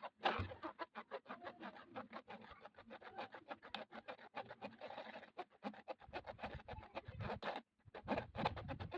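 Rapid, even scratching strokes, about seven a second, with deeper thumps joining in the last few seconds.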